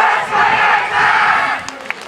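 A team of yosakoi dancers shouting together in a loud group cry lasting about a second and a half, followed near the end by scattered sharp claps.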